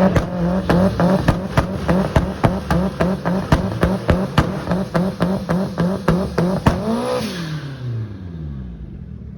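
Drag-racing car engine held at high revs, cracking with sharp regular bangs about three or four times a second. About seven seconds in it revs up once, then the sound falls and fades away.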